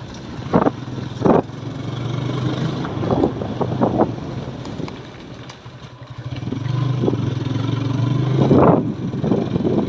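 Motorcycle engine running under way, its pitch climbing as it pulls, easing off about halfway through, then pulling again. A few short knocks punctuate it.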